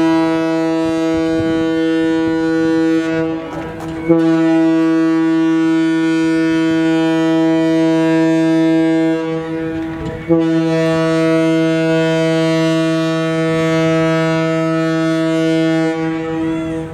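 Ship's horn sounding a deep, steady note in long blasts, broken twice briefly: a departure signal as the ship leaves port.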